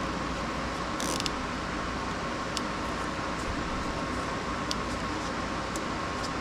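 A steady mechanical hum with a constant mid-pitched tone, and a few faint ticks, the clearest about a second in.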